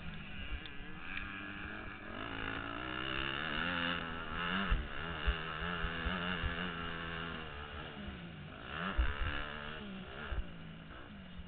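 Motocross dirt bike engine revving up and down again and again as the throttle is worked, heard from a helmet-mounted camera with rushing wind and several low thumps.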